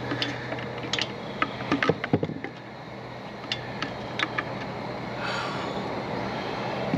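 Irregular clicks, taps and knocks of plastic and metal parts being handled as the Stihl FS 55 RC string trimmer is taken apart, with a cluster of knocks about two seconds in, over a steady low hum.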